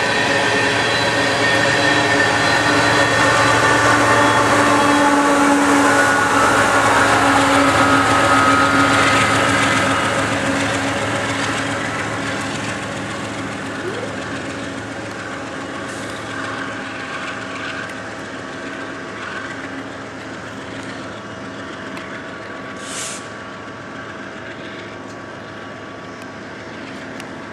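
BNSF freight train rolling by, loudest in the first ten seconds and then fading steadily as it draws away, with steady ringing tones over the rolling noise. A brief high screech comes about 23 seconds in.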